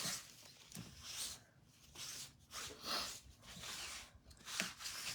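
Cloth rubbing over a wet, sticky chalk transfer to dry it, in a series of short swishes, roughly one a second.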